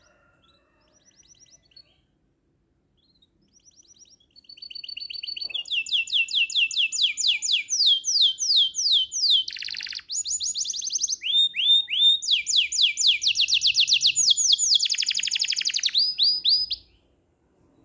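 A songbird, the one called 'burung samure', singing. It gives a few soft chirps, then from about four seconds in a loud, fast song of rapidly repeated downward-sweeping notes with a brief break midway. The song stops shortly before the end.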